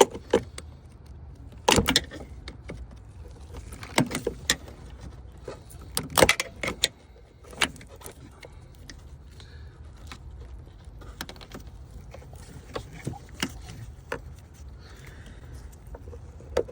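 Small tool and fingers working at a stubborn plastic line clip: irregular sharp clicks, taps and rattles of plastic and metal, busiest in the first half, over a steady low background rumble.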